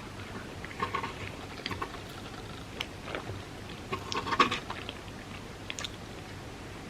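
Close-miked chewing and wet mouth sounds of someone eating soft crepe cake with cream, coming as scattered soft smacks. The loudest cluster comes about four seconds in.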